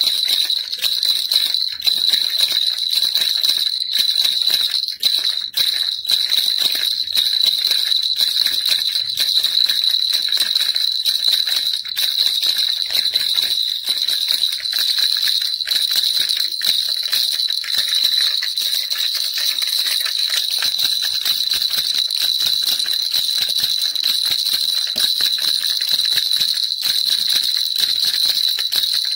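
Baby rattle shaken without a break: a dense, even jingling with a steady high ring running through it.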